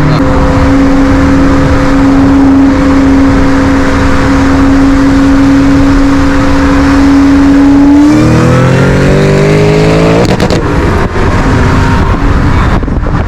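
Supercharged V8 car engine running at a steady cruise, then revving up with a rising pitch for about two seconds under acceleration before an abrupt shift or lift.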